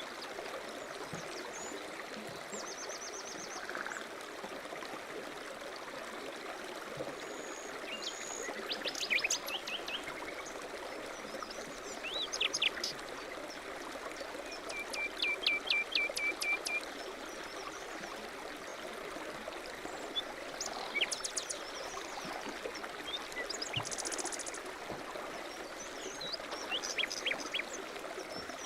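A stream running steadily, with songbirds singing over it: short trills and chirps scattered throughout, and a run of about eight quick repeated chirps about halfway through.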